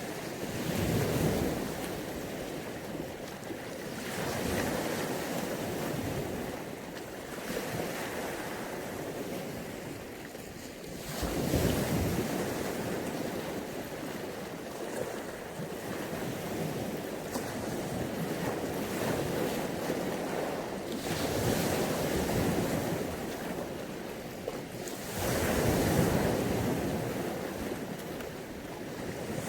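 Mediterranean sea waves breaking and washing onto the beach, each wave swelling up and falling back every few seconds, with wind on the microphone.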